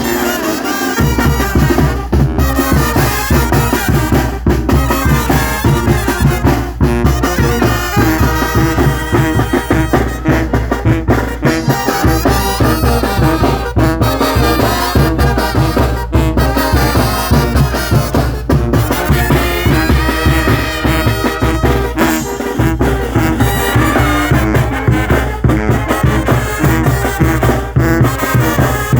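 Mexican banda music from a Guerrero brass band: trumpets and trombones playing over a steady, heavy drum beat.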